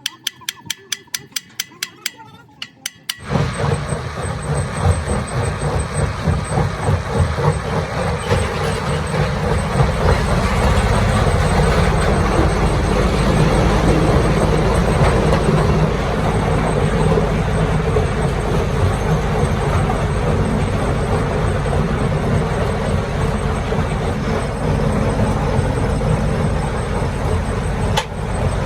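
A row of quick, even clicks, then about three seconds in a heavy engine starts abruptly and runs loudly and steadily.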